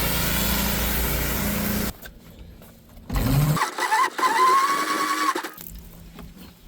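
Pressure-washing equipment running: a steady spray-and-motor noise with a low hum that cuts off abruptly about two seconds in. After a quieter gap, a shorter, louder wavering tone follows.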